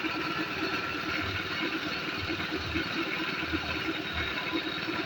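A motor running steadily with a fast, even pulsing and a steady hiss above it.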